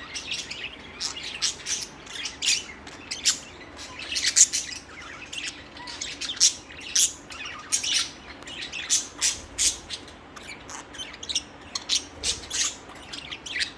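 Budgerigars chattering: a rapid, continuous string of short chirps, warbles and squawks.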